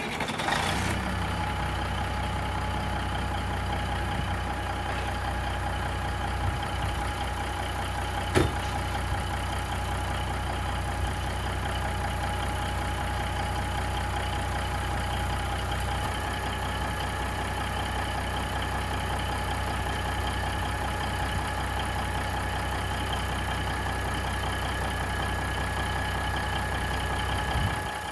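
Caterpillar 3406B inline-six diesel idling steadily, running again on its rebuilt fuel transfer pump. A single sharp click is heard about eight seconds in.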